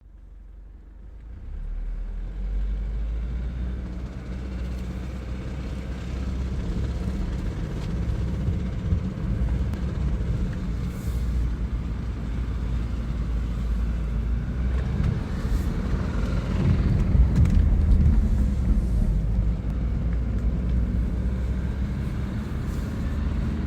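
BMW N20 2.0-litre turbocharged four-cylinder engine running with a knocking noise.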